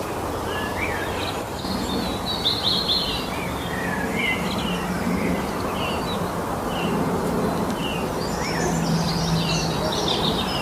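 Several forest songbirds chirping and singing, short overlapping calls and trills throughout, busiest twice, over a steady rushing background noise.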